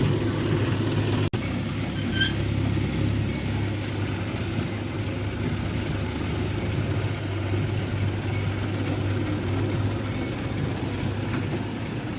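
Heavy diesel engine running steadily at a low, even speed, with a very brief dropout about a second in.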